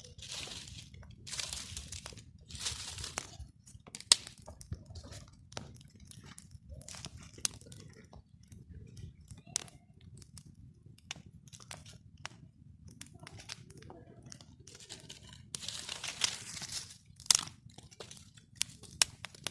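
Crunching and rustling of dry forest material such as twigs and leaves being handled, with scattered sharp snaps. There are longer rustles about a second in, near three seconds and again around sixteen seconds, over a steady low rumble.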